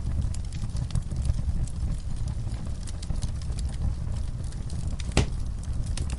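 Wood logs burning in a fireplace: a steady low rumble of flames with frequent small crackles and one sharper pop about five seconds in.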